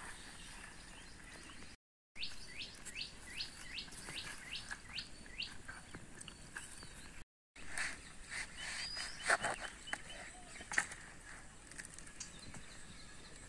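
Birds chirping in the background: a quick run of about ten short, falling high notes, then scattered chirps, with a few sharp knocks in the second half. The sound drops out completely twice, briefly.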